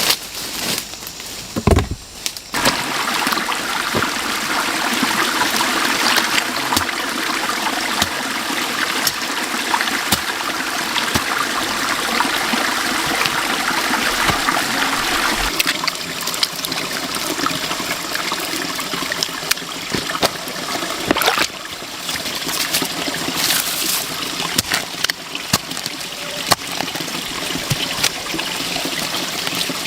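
Steady running water, like a stream or trickle, with scattered clicks and knocks. A few sharp knocks come first; the water sound sets in about two seconds in.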